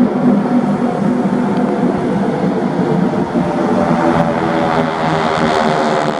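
Propeller-driven aircraft flying past, its engine drone steady with many stacked tones, growing brighter about two-thirds of the way in.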